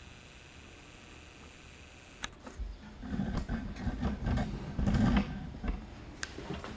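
Saw set and rip saw being handled while the saw's teeth are set: a sharp metallic click about two seconds in, then a run of clicks and dull knocks, loudest about five seconds in.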